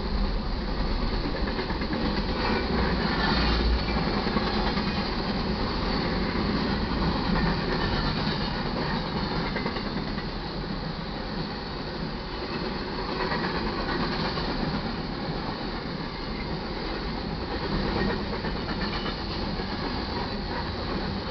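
Freight train cars rolling steadily past, their wheels running on the rails in a continuous noise.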